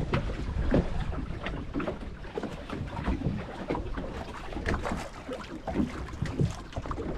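Water splashing and lapping around a rowed wooden pletna boat, in a dense run of brief, irregular splashes.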